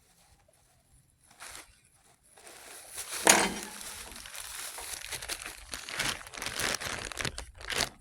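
Crinkling, rustling handling noise close to the microphone. It starts about two seconds in, with a sharp, louder crackle a little after that, and carries on irregularly.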